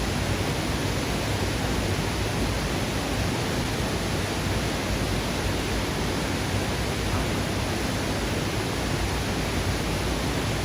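Waterfall rushing close by: a steady, unbroken noise of falling water.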